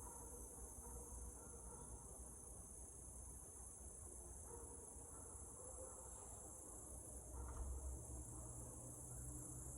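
Steady, high-pitched chirring of a summer insect chorus, such as crickets, going on without a break. A soft low rumble swells briefly about three quarters of the way through.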